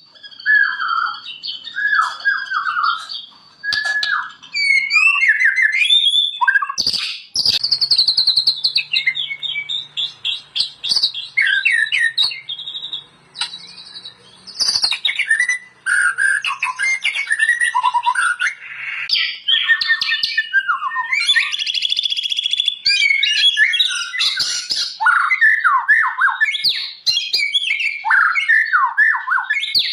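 White-rumped shama singing: a long, varied run of rich whistles, rapid trills and harsh chattering notes, phrase after phrase with short pauses.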